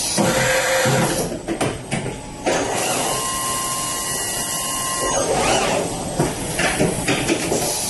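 CNC machining center running: uneven rushing mechanical noise with short breaks, and a steady whine for about two seconds in the middle.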